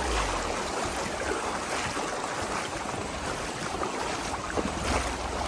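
Shallow river water rushing over stones as a steady hiss, with a low rumble near the start and again near the end.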